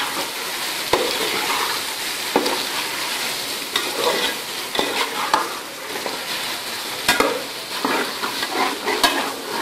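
Beef pieces, tomatoes and onion sizzling as they fry in a steel pot, with a spoon scraping and now and then knocking against the pot as it stirs.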